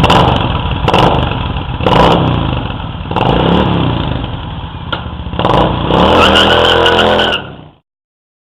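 Harley-Davidson V-twin engine revved through Power Master slip-on mufflers: a series of quick throttle blips about a second apart, then a longer rev, with a deep exhaust note. The sound cuts off shortly before the end.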